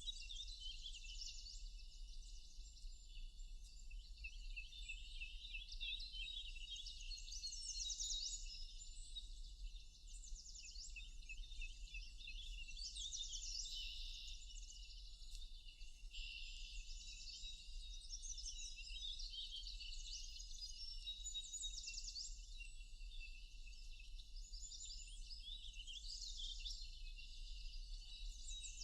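A dense chorus of many songbirds chirping and trilling over one another without a break, with a steady low hum underneath.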